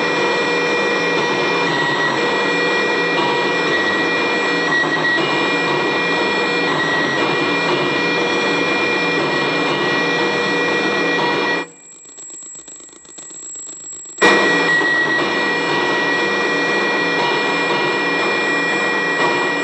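Circuit-bent Korg DDD-1 drum machine's digital signals patched through an effect, giving a harsh, dense digital noise drone with steady high tones switching on and off. About twelve seconds in it cuts out for about two and a half seconds, then comes back abruptly with a click.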